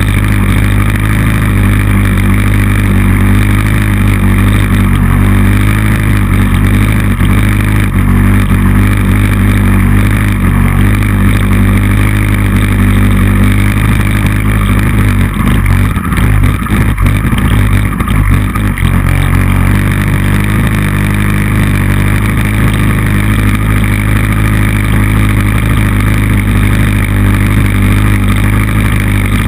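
Motorcycle engine running hard on a race circuit, heard on board; the engine note holds mostly steady, breaks up and changes for a few seconds about halfway through, then settles again.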